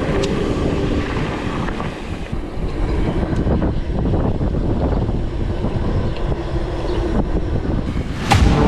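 Mountain bike rolling down a dirt trail: a steady rumble of tyres over rough ground with small rattles and knocks, and wind on the microphone. A brief loud whoosh comes near the end.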